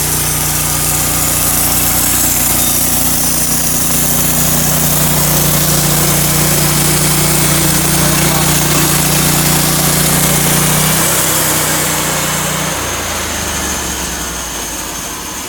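Portable sawmill's engine running steadily under a high hiss, then dropping in pitch in two steps about eleven and thirteen seconds in as it slows, with the sound easing off near the end.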